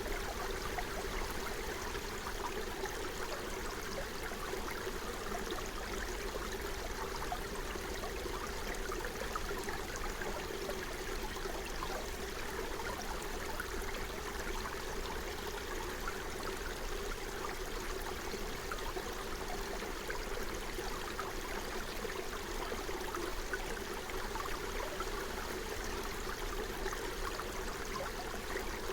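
Small forest stream flowing over stones, a steady rushing and babbling of water.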